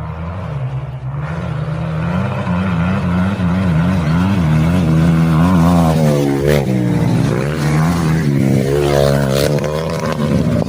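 Dirt bike engine running hard, its pitch rising and falling again and again with the throttle, growing louder over the first few seconds.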